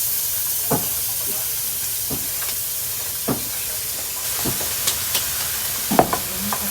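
Onion frying in hot oil in a frying pan: a steady sizzling hiss, with scattered clicks of a utensil stirring in the pan, the sharpest about six seconds in.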